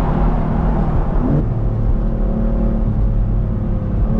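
Engine of a stage 1 tuned, roughly 500 bhp BMW M convertible pulling under way, heard from the open-top cabin over wind and road noise. About a second and a half in, the engine note climbs briefly, then steps down to a lower steady pitch, as at a gear change.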